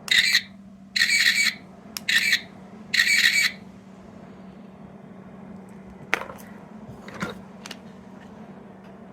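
A small sound-making capsule toy gives four short, loud, buzzy electronic bursts about a second apart, followed later by a few light clicks as it is handled.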